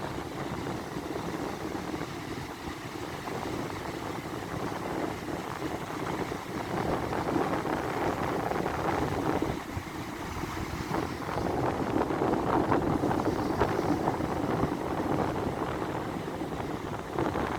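Strong wind buffeting the microphone over the rush of stormy sea surf, a continuous rumbling noise that grows louder in the second half.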